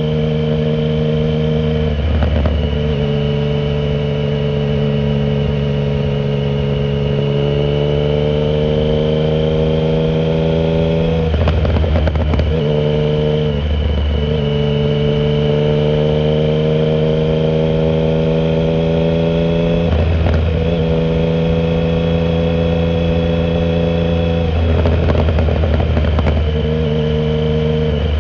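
2009 Triumph Speed Triple 1050's inline three-cylinder engine through a shorty Competition Werkes exhaust with no silencer, running hard under way. Its pitch holds or climbs steadily and is broken by about five brief gaps, as at gear changes.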